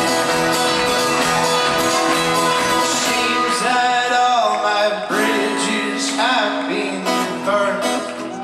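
A folk-rock band playing live, with strummed acoustic guitar and other strings carrying the song between vocal lines. About five seconds in, the low bass drops away, leaving a held note and lighter playing.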